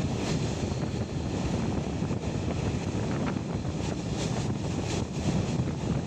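Wind rushing over the microphone at an open train window, over the steady low rumble of a passenger coach running along the track.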